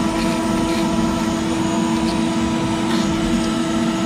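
CNC router spindle running steadily with a 1/8-inch end mill cutting a clearance pass in PVC: a steady whine made of several fixed tones, with faint short scratchy cutting sounds over it.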